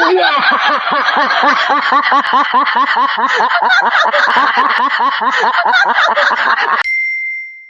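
Rapid, rhythmic laughter, about four bursts of "ha" a second, that stops abruptly near the end, followed by a short, high ding.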